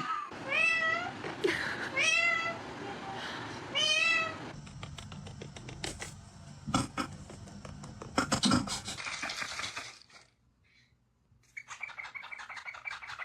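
Three meows about a second and a half apart, each rising then falling in pitch, followed by several seconds of clicking and rattling and a burst of rapid chirping near the end.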